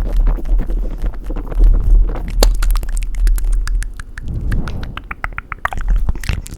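Close-miked wet mouth and tongue sounds: rapid smacks, clicks and tongue flutters, loud and dense over a low breathy rumble.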